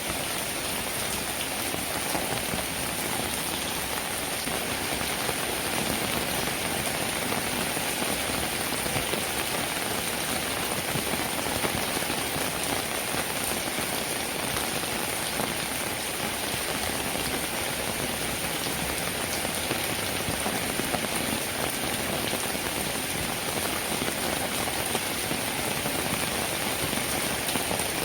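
Steady rainfall, a dense, even sound of many drops that holds without let-up.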